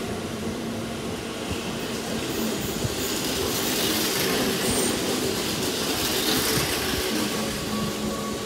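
Keihan electric train running along a station platform: steady rumble and wheel-on-rail noise with a faint motor hum. It grows louder about halfway through as the cars pass close, then eases as the last car goes by.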